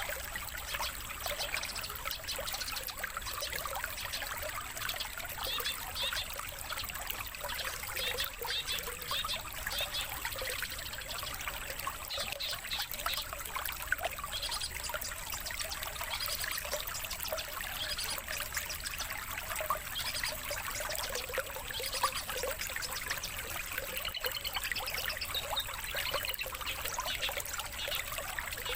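Running water trickling steadily, with many short songbird chirps and calls over it and a rapid trill near the end.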